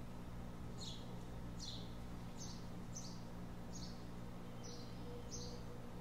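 A bird chirping over and over, short falling notes a little under one a second, over a steady low background hum.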